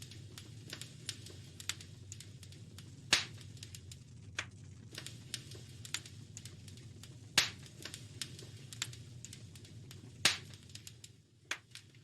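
Wood fire crackling in a fireplace: irregular sharp snaps and pops, three louder ones spaced about three to four seconds apart, over a low steady rumble.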